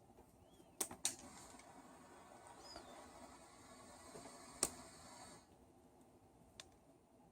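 A few sharp clicks from small hand tools working on a power cord, the loudest a little past halfway, over a soft rustling hiss that stops about three-quarters of the way through.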